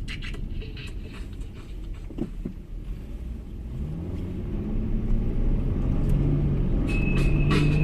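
Low rumble of a road vehicle's engine, rising in pitch and getting louder partway through as it speeds up, with a steady high whine joining near the end.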